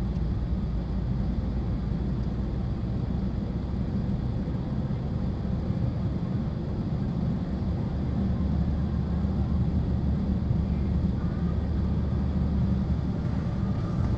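Steady, deep drone of a moving vehicle's engine and road noise, with no crash or impact heard.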